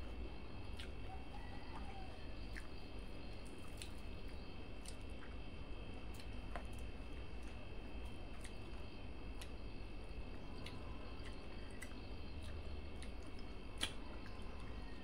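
Close-up mouth sounds of eating rice and curry by hand: wet chewing, lip smacks and the squish of fingers mixing soft rice. There are scattered small clicks, with one sharper click near the end, over a steady background hum.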